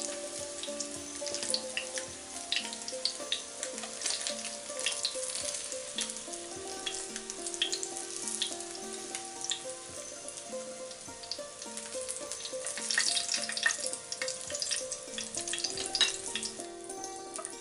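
Floured tofu pieces frying in hot oil: a steady sizzle full of small crackling pops. Soft background music plays a melody underneath.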